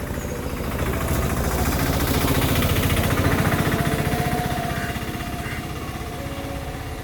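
A motor vehicle's engine passing by with a fast, even pulse. It grows louder to a peak about three seconds in, then fades.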